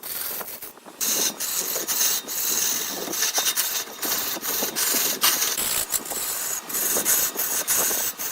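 Hand-held turning tool cutting into wood spinning on a lathe: a scraping hiss with frequent sharp ticks, thinner for the first second, then louder from about a second in.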